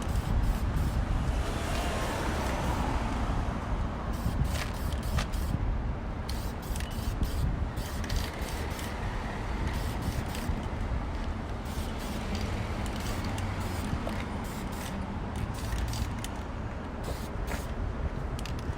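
Aerosol can of primer sprayed in repeated short bursts onto a car wheel rim for a light first coat. Wind is buffeting the microphone with a steady low rumble.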